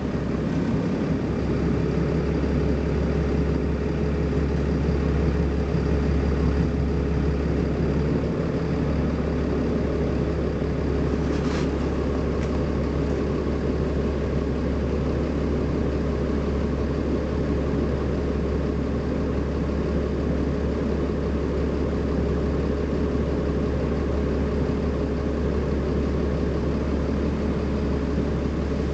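BMC Belde 220-SLF city bus running steadily: a constant low engine drone with a steady whine over it. A single sharp click comes about eleven seconds in.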